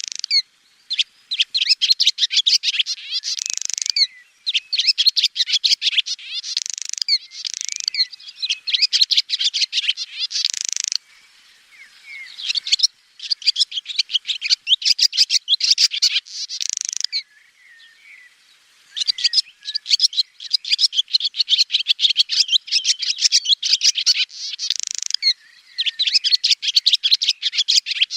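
Swallow singing: fast twittering phrases a few seconds long, each ending in a short, harsher burst, repeated with brief pauses between them.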